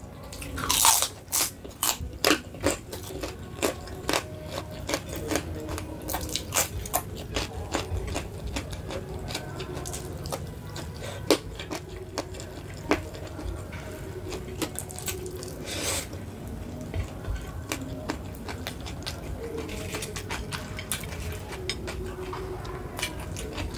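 Close-up eating sounds: crunchy bites and wet chewing of food, with clicks coming thick and fast in the first several seconds and more spaced out after that.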